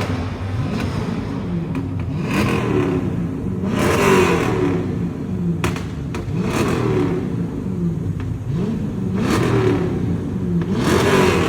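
Car engines being revved again and again, each rev rising in pitch and dropping back, about every two seconds, with a few sharp pops in between.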